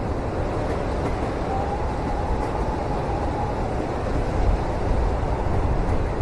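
Passenger train running, heard from inside the cabin: a steady low rumble with a faint whine in the middle and small swells in level near the end.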